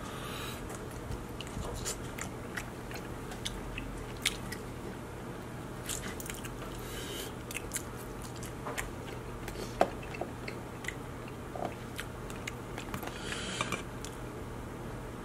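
A person biting and chewing sauce-dipped king crab meat, with many scattered sharp clicks, the loudest about ten seconds in, and a short crackling stretch near the end as the crab legs are handled.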